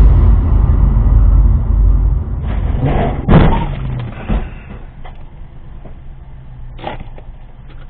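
Car crash on dashcam audio: a heavy low rumbling of the collision at first, then a hard bang about three and a half seconds in, followed by smaller knocks.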